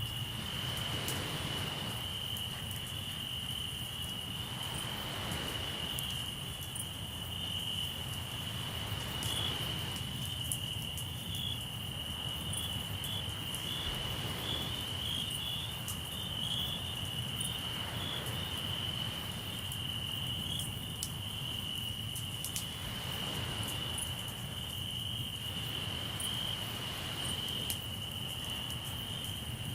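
Crickets trilling steadily, with soft surges of sea waves washing in every four to five seconds and faint crackles from a campfire.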